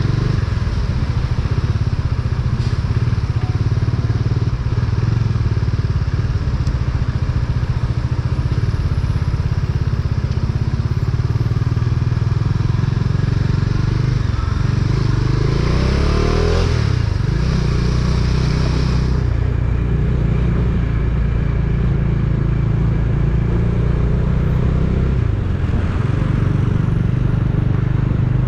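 An engine running steadily, with its pitch shifting briefly about halfway through before settling again.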